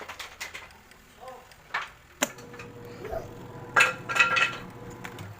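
Switch and contactor clicks, then a sharp click a little over two seconds in as the manually wired wash circuit is switched on, after which the washing machine's wash motor starts and hums steadily. Louder clinks and knocks come around the middle.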